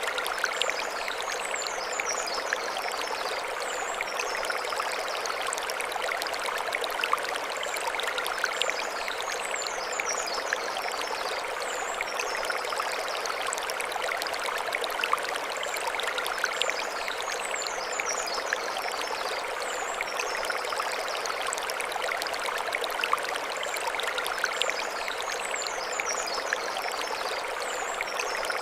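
Mountain stream flowing over stones: a steady rushing with many small splashes. A short, high twittering phrase comes back about every eight seconds.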